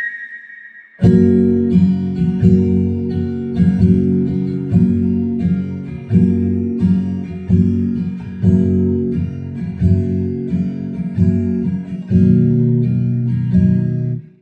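Acoustic guitar intro of a pop ballad, repeated plucked and strummed chords at a steady pace. It starts about a second in and cuts off abruptly near the end.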